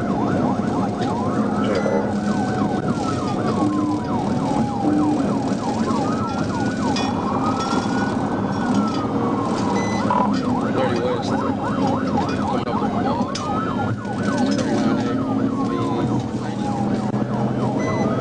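Police car siren wailing in slow rises and falls, overlaid with a rapid yelp, over the steady engine and road noise of the pursuing patrol car.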